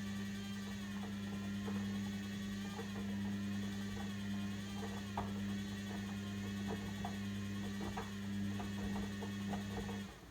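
Logik L712WM23 washing machine running: a steady low hum with scattered light clicks, which cuts off near the end.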